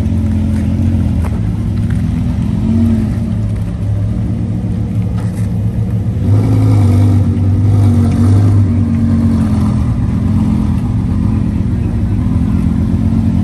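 Lamborghini V10 engine running at low revs as the car rolls slowly, with small rises and falls in pitch from light throttle. It gets a little louder from about six to nine seconds in.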